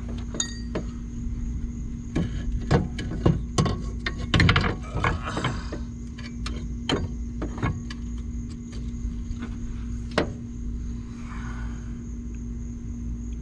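Scattered metallic clinks and knocks of a coil spring and hydraulic lowrider cylinder being handled and seated in a truck's front suspension. The knocks are thickest in the first half, with one more sharp knock later, over a steady low hum.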